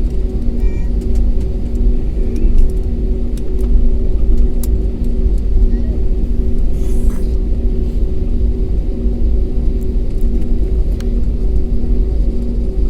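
Airliner heard from inside the cabin while moving on the ground: a loud, steady low rumble of the aircraft rolling, with a steady engine hum over it.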